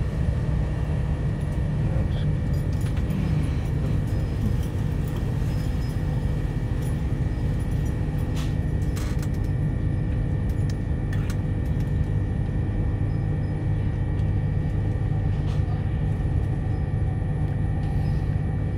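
Steady low rumble of the Rockhampton tilt train running at speed, heard from inside the carriage, with a thin steady hum over it and a few faint clicks.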